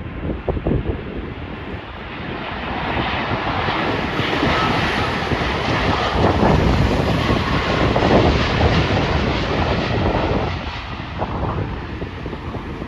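Jet airliner passing on its landing approach, engine noise swelling over a few seconds and then fading. Wind buffets the microphone underneath.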